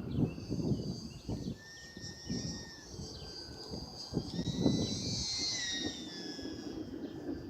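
Whine of a UMX P-47 radio-control plane's small electric motor and propeller, its pitch drifting up and down as the plane flies around. It swells in the middle and then fades. Gusts of wind buffet the microphone throughout.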